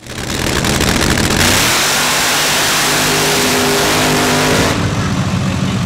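Loud car engine revving hard and accelerating, with a dense hiss and a pitch that climbs slowly. About five seconds in the sound changes abruptly to a lower, quieter engine sound.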